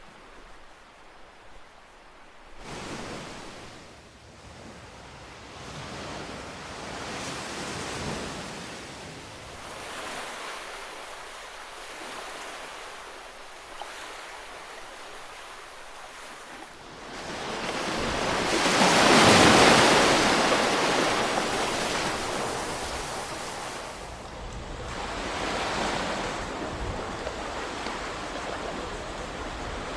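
Ocean waves washing onto a shore: a steady hiss of surf that swells and fades with each wave, with one larger wave breaking about two-thirds of the way through.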